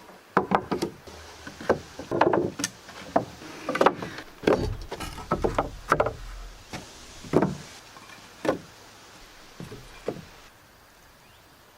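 Timber framing being worked with hand tools: a series of irregular wooden knocks and thuds, a dozen or so, some sharp with a short ring. They stop about ten seconds in.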